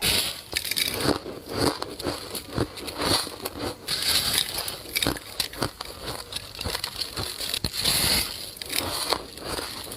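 Soft ice being bitten and crunched up close, a dense run of short crackling crunches one after another.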